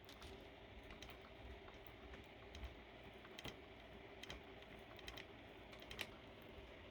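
Faint, irregular clicks from a motorized bike's roller chain being turned slowly by hand over the engine's pinion sprocket. The chain has about six bad links whose rollers are the wrong size and catch on the pinion gear.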